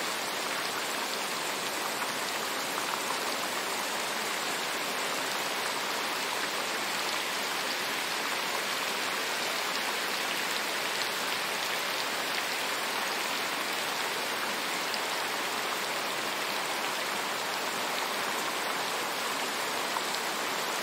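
Steady rain: an even hiss of many drops, with faint single drop ticks scattered through it.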